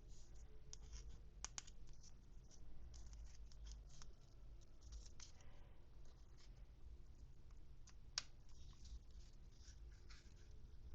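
Hands unwrapping and handling toy packaging and small accessories up close, ASMR style: soft scratching and crinkling with scattered light clicks, the sharpest about eight seconds in.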